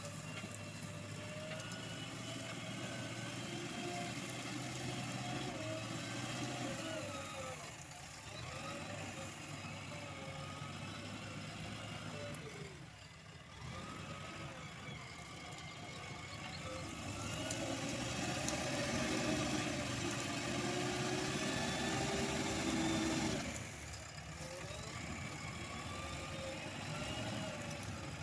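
JCB 3DX backhoe loader's diesel engine working, its revs rising and falling with the load. It is loudest for several seconds about two-thirds of the way through, then drops back sharply.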